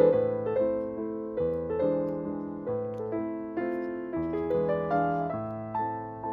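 Background piano music, a slow, gentle melody with chords.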